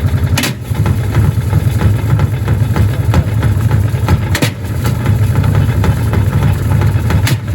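Gorenje washing machine running with heavy bricks in its drum: a loud, pulsing low rumble, with three sharp bangs as the bricks strike the drum.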